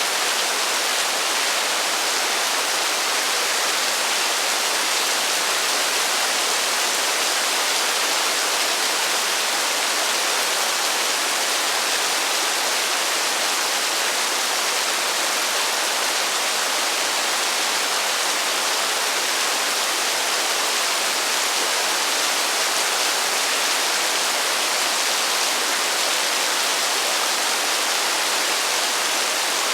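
Heavy rain falling in a steady, even hiss with no thunder and no separate drops or gusts standing out.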